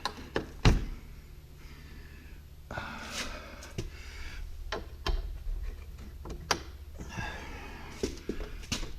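A heavy exterior door being worked back onto its hinges: scattered knocks and clicks, with two longer rustling, scraping stretches.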